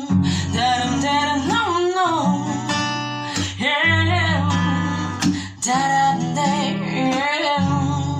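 Acoustic guitar strummed with a woman's voice singing over it.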